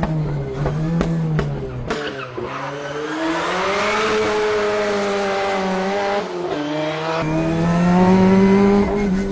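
Ford Sierra RS Cosworth Group A race car's turbocharged four-cylinder engine at racing speed, its note dropping and climbing again through gear changes. There are a few sharp cracks in the first two seconds, and the engine is loudest near the end as it pulls hard.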